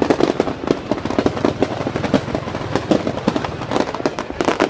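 Fireworks going off in a dense, continuous crackle of sharp pops and bangs, many a second, overlapping without a break.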